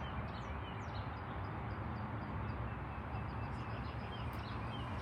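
Birds chirping outdoors: scattered short, high chirps over a steady low background rumble.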